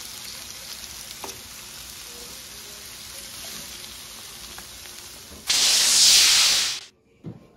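Shredded chicken, onions and red bell pepper strips sizzling steadily on a cast-iron griddle. Near the end a much louder rushing whoosh lasts about a second and a half, then cuts off sharply.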